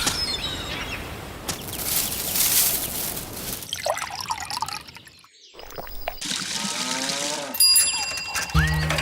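Liquid pouring and trickling, heard as a string of short sounds that change abruptly. A bright bell-like ring comes near the end, and music starts just before the end.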